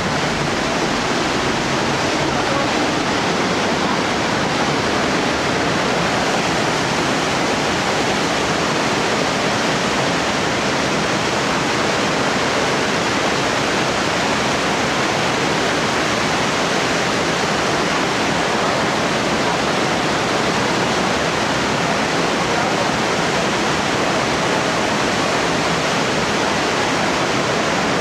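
The Rhine Falls, a large river waterfall, pouring with a loud, steady roar of falling water.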